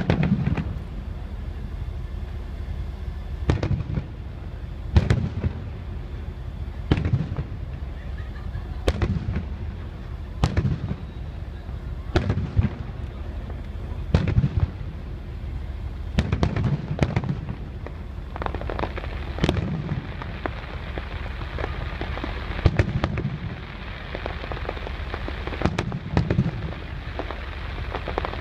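Aerial fireworks shells bursting one after another, a boom every second or two with a rumbling echo after each. In the second half a denser crackle fills in between the booms.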